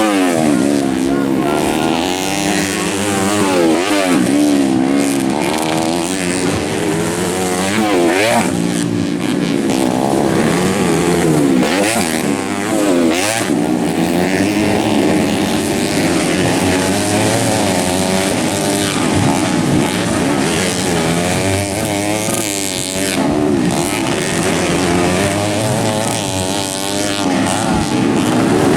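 Several motocross dirt bikes racing on a dirt track, their engines revving up and down through the gears as they pass, overlapping, with the pitch rising and falling throughout.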